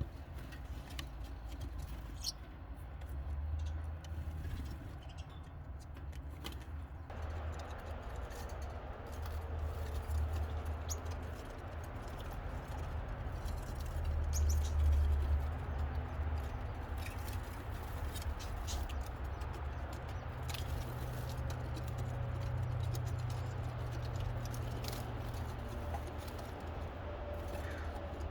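Faint, short high cheeps of nestling birds, scattered irregularly over a steady low rumble.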